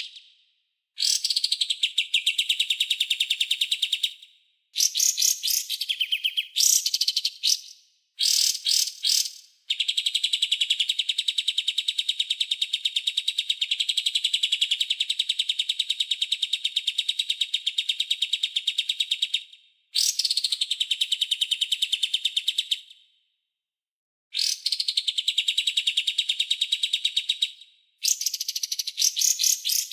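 Songbird training recording of harsh, rapid rattling trills and chattering phrases, each a few seconds long, broken by abrupt silent gaps.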